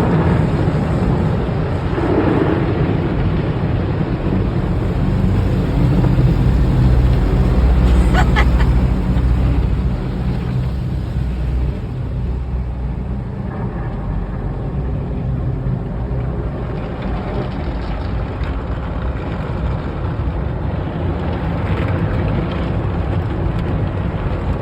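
Automatic car wash machinery running, heard from inside the car cabin: a steady low rumble with a hiss over it. It is louder for the first ten seconds or so, then settles a little quieter, with a few brief clicks about eight seconds in.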